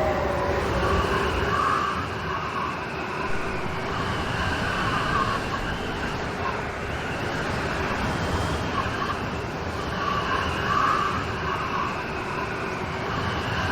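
Steady rain storm, a dense even hiss of falling rain, with a faint wavering tone in the background that swells and fades several times.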